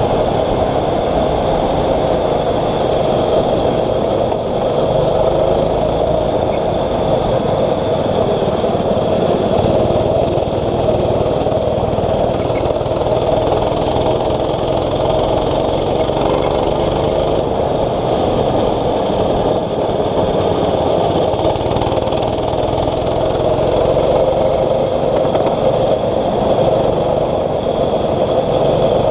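6.5 hp rental kart engine running hard on track: a steady, loud drone whose pitch wavers slightly with the throttle.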